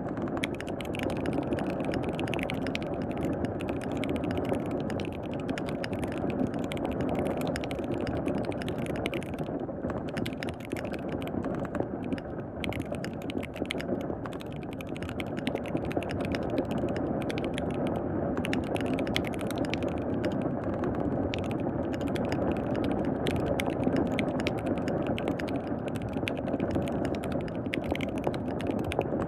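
Rapid typing on a KBD67 Lite R3 mechanical keyboard with lubed linear switches, a dense run of keystroke clacks that slows a little about halfway through, over a steady hiss of rain.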